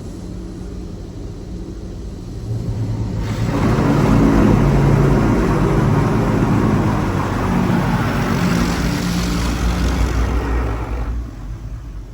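PDQ LaserWash G5-S touch-free car wash running: a steady pump and motor hum, then from about three seconds in a loud hissing high-pressure water spray hits the car for about eight seconds and cuts off.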